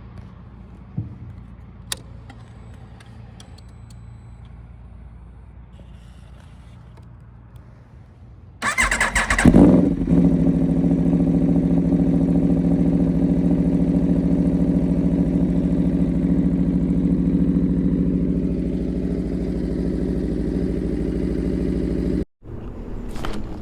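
Aprilia RSV4 V4 engine with an SC-Project CRT exhaust being started: after a couple of faint clicks, it cranks and catches with a quick loud blip about nine seconds in, then settles into a steady idle. The sound cuts off suddenly near the end.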